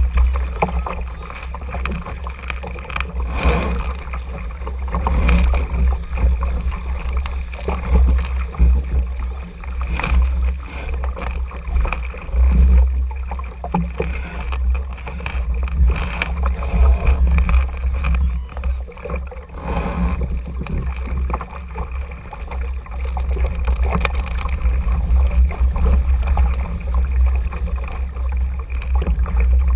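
Steady low rumble of wind buffeting the microphone of a GoPro camera aboard a small RS Tera sailing dinghy, with water gurgling along the hull and occasional knocks.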